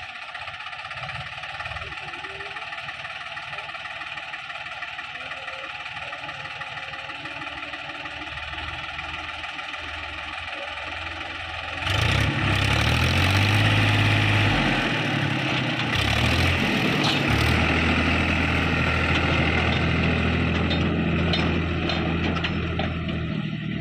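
Powertrac Euro tractor's diesel engine running at a steady low idle, then revving up sharply about halfway through and holding at higher revs with its note wavering, as the engine takes on the hydraulic load of tipping the sand trailer.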